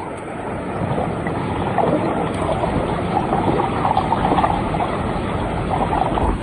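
Stream water rushing and churning steadily, heard close and somewhat muffled.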